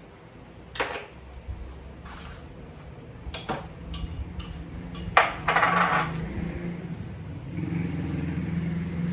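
Kitchen cutlery and dishes knocking and clinking: several sharp knocks spread through the clip, then a short scrape about five seconds in. A low steady hum comes in near the end.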